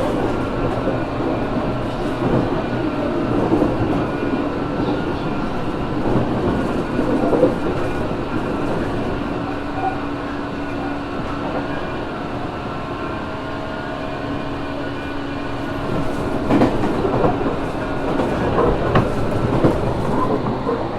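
Cabin running noise of a JR Kyushu 415 series 1500 subseries electric train, motor car MoHa 414-1513, a car noted for an unusual running noise: a steady hum of motors and gears with several slightly wavering tones, over wheel and track rumble. Clickety-clack of the wheels over rail joints comes through, busier in the last few seconds.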